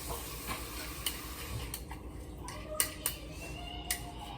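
Kitchen pans and utensils clinking and knocking: a handful of sharp light knocks spread over a few seconds.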